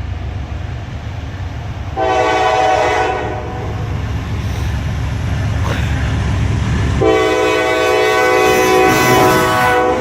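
Locomotive air horn sounding two blasts over the steady rumble of the train: a short blast about two seconds in and a longer one from about seven seconds in to near the end.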